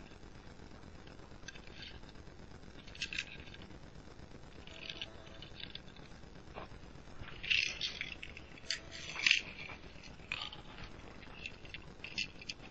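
Small toy cars being handled and rolled, making short scrapes and clicks, with a few louder scrapes between about seven and nine and a half seconds in.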